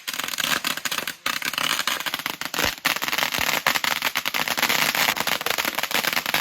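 Fireworks crackling: a dense, rapid run of sharp pops and crackles, broken only by a brief lull about a second in.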